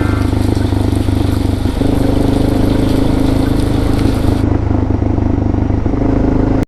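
Suzuki DR650's single-cylinder four-stroke engine running while the motorcycle is ridden, with wind hiss over it; the engine note changes to a new steady pitch about two seconds in. The sound cuts off suddenly at the end.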